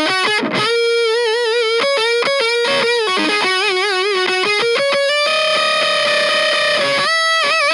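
Electric guitar, an Epiphone Les Paul Special VE, played through a Kokko KH8 high-gain distortion pedal. It plays a lead line of single sustained notes with wide vibrato, bends up to a long held note about five seconds in, then pauses briefly before another vibrato note near the end.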